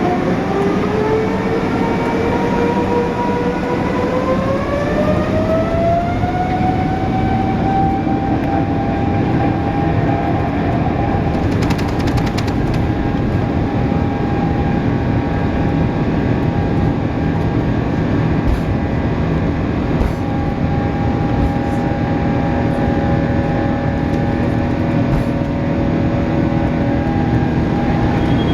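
Boeing 787-9's Rolls-Royce Trent 1000 turbofans spooling up to takeoff thrust: a whine that rises in pitch over the first six seconds, then holds steady over a loud, continuous rush.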